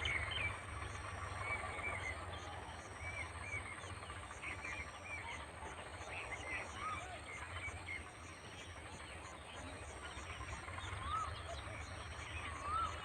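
Birds chirping, many short scattered calls, over a low steady rumble and a faint steady high hiss.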